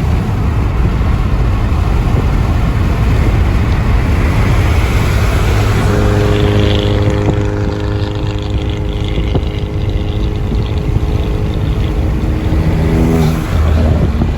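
A car driving, with a loud, steady engine and road rumble. From about six seconds in, the engine settles into a steady drone at one pitch, and near the end it drops to a lower pitch.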